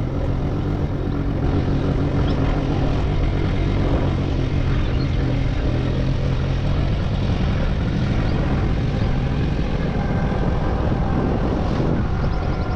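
Motorcycle engine running steadily on the move, under a steady rush of wind and road noise.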